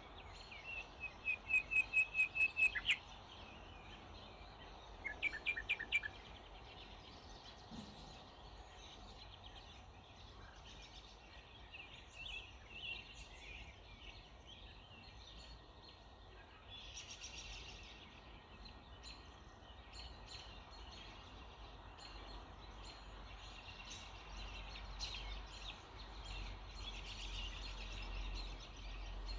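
Early-morning birdsong: a loud, rapid run of about ten repeated high notes in the first three seconds and a shorter run of about five notes around five seconds in. Many fainter chirps and twitters follow through the rest.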